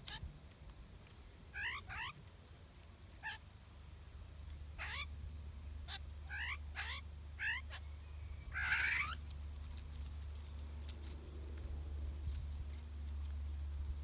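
Outdoor bird calls: a scattered run of short, falling chirps, some in quick pairs, then one louder, harsher call about nine seconds in. A steady low rumble runs underneath.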